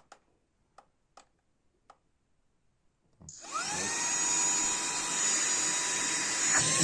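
A few faint clicks, then about three seconds in an Aspiring Windstorm 3 car vacuum cleaner switches on for its first run: the motor's whine rises quickly and settles into a steady running whine over a rush of air.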